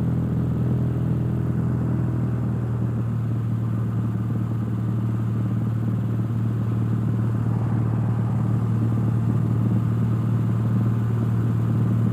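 Cessna 172's piston engine and propeller droning steadily inside the cabin, throttled back to pattern power on the downwind leg.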